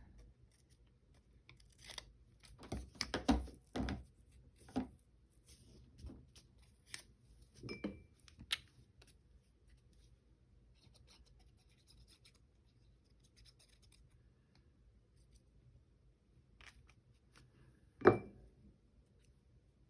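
Paper being handled and worked at a craft table: scattered rustles and light clicks through the first half, then a single sharp knock near the end, the loudest sound.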